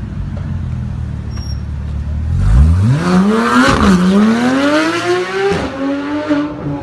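Supercar engine idling low, then accelerating hard away, its note climbing steeply, dropping briefly at a gear change about a second later, climbing again and changing gear once more before settling.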